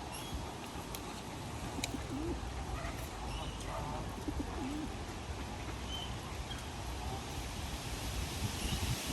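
Pigeons cooing, with two short low coos about two and four seconds in and a few faint chirps from small birds, over a steady outdoor hiss.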